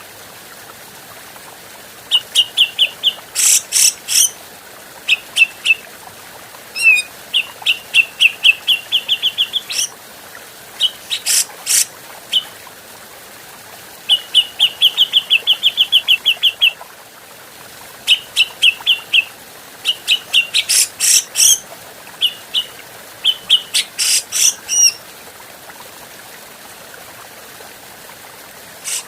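Grey-cheeked bulbul (cucak jenggot) calling: fast runs of repeated chattering notes, some drawn into long rattling series, mixed with loud sharp high notes, starting about two seconds in and pausing near the end. A steady hiss sits beneath.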